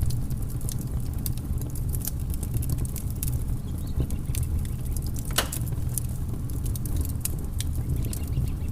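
Wood fire crackling in a fireplace: a steady low rumble of flames under frequent sharp pops and snaps, one louder pop about five seconds in.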